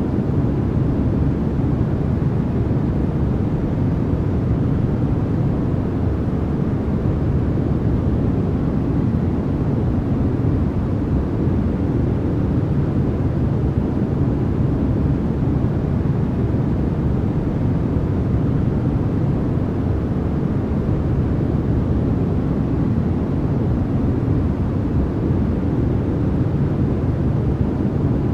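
Steady, unchanging noise of the kind played for sleep or focus, with most of its energy in the low range so it sounds like a deep rush more than a bright hiss.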